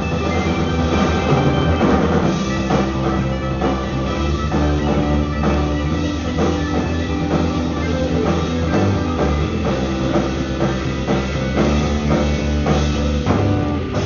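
Live band jamming a rock piece, with drum kit keeping a steady beat under sustained guitar notes.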